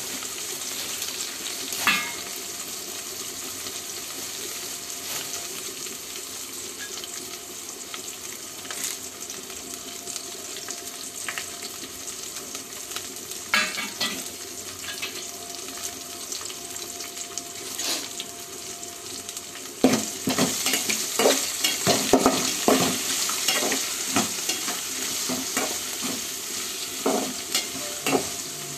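Onions, green chillies and whole spices sizzling in hot oil in a steel pot. About halfway there are a few sharp crackles as curry leaves go in. From about two-thirds through, a metal spatula scrapes and knocks against the pot as the mix is stirred.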